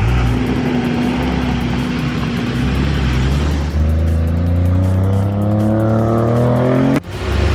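A heavy vehicle's engine running steadily, then revving up with a steadily rising pitch for about three seconds before cutting off abruptly near the end.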